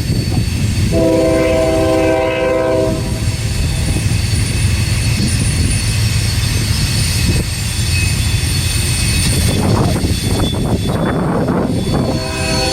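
A freight locomotive's horn sounds for about two seconds, starting about a second in, over the steady low rumble of a train rolling by. A second horn blast begins near the end.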